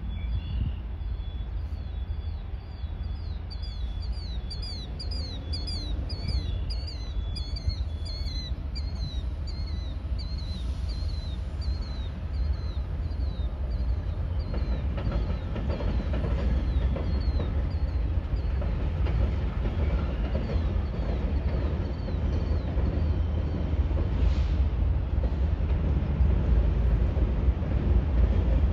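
BNSF grain train rumbling past, growing steadily louder as it draws near. Over the first half, a bird chirps in a rapid, repeated series above it.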